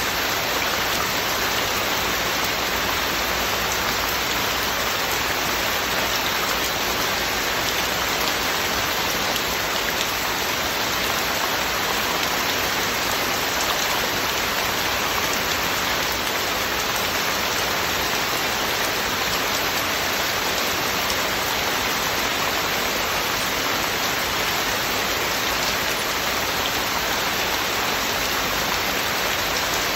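Heavy rain falling steadily, a constant even hiss without thunder or breaks.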